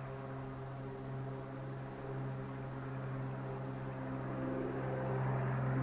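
Float plane's propeller engine running at takeoff power with a steady drone, getting gradually louder toward the end.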